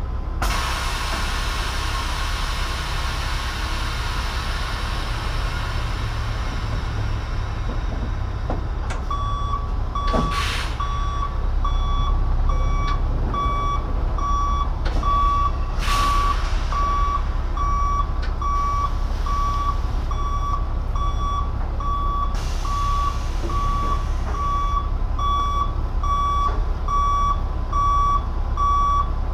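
Scania truck's diesel engine running, with its reversing alarm beeping steadily, about one and a half beeps a second, from about a third of the way in, as the tractor reverses to slide the skeletal trailer's length. Two brief hisses cut across the beeping.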